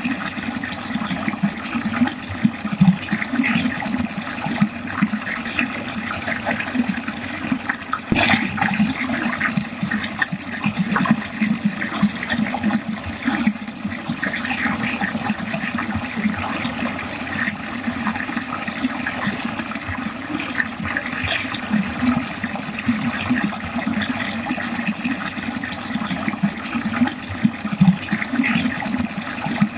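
Water running steadily down a drain, a continuous gurgling rush with small irregular splashes and a brief louder surge about eight seconds in.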